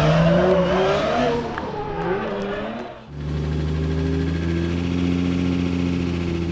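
Drift car engine revving, its pitch swinging up and down for about three seconds, then, after a brief dip, held at a steady pitch.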